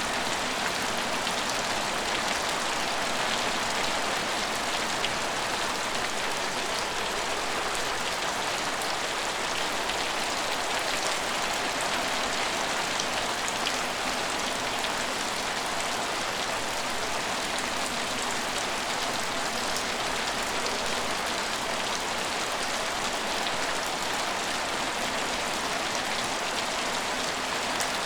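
Steady rain falling and pattering on hard surfaces, an even hiss with scattered drop ticks.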